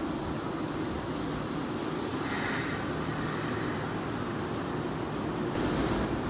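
Kintetsu electric train braking into a station platform and drawing to a stop: steady rumble of wheels and motors, with a thin, steady brake squeal in the first couple of seconds. A hiss starts abruptly near the end as the train stops.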